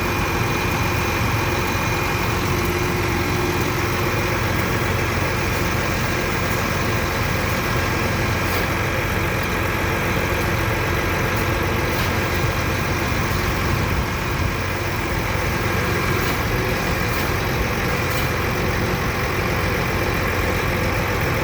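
A vehicle engine idling steadily, with a faint high whine that holds one pitch throughout.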